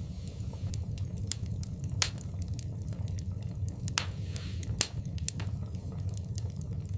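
Wood fire burning in a fireplace: a steady low rumble of flames with scattered sharp crackles and pops, the sharpest pops about two seconds in and near five seconds.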